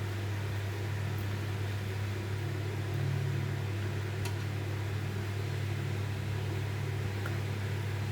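Steady low hum of a running fan or small motor, with a couple of faint light clicks.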